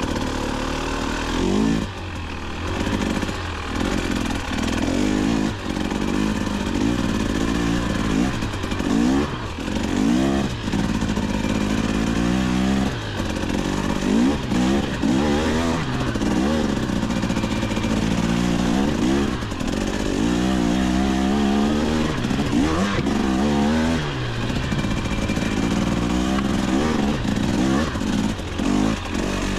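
KTM 250XC-W's two-stroke single-cylinder engine revving up and down over and over as the dirt bike is ridden in second gear, the throttle opened and closed every second or two.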